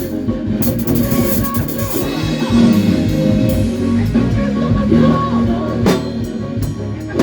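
A band rehearsing a gospel worship song: drum kit with cymbal crashes over a steady groove of bass and guitar.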